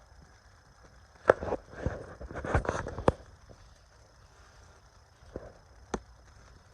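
A handful of irregular knocks and taps, most of them in a cluster from about one to three seconds in and one more near the end, over a faint steady high hiss.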